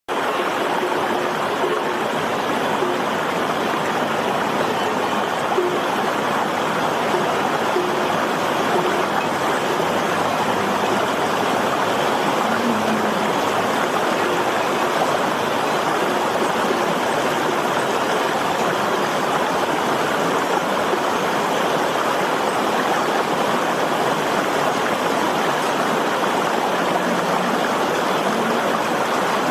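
Steady rushing of flowing water, an even noise that doesn't change throughout.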